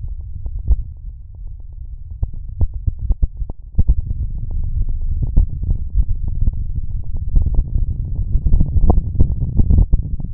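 Shortwave radio static from a WebSDR receiver: dense crackling clicks over a low rumble, muffled by the receiver's narrow audio passband, growing louder about four seconds in.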